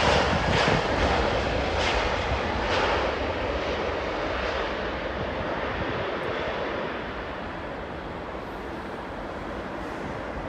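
Jet airliner engine noise, loud at first and fading steadily as the aircraft moves away.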